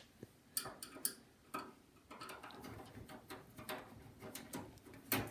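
Faint, irregular clicks and light taps of hands and a tool working on a desktop PC's case while its side panel is being taken off, with a louder knock near the end.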